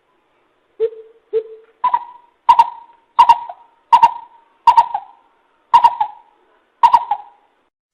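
Coucal (bìm bịp) calling: a series of hollow hooting notes. The first two are lower, and the rest are higher and louder, repeated about every 0.7 seconds.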